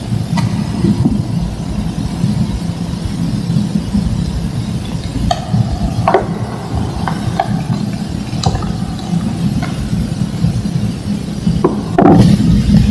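Thick slabs of green-dyed gym chalk being crushed and crumbled: a steady low crumbling noise with scattered sharp cracks as pieces snap, the loudest crack a little before the end.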